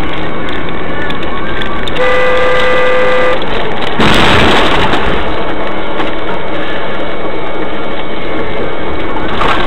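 Steady vehicle and road noise with a car horn sounding for about a second and a half, then about a second later a loud bang that fades quickly, typical of a collision recorded by a dashcam.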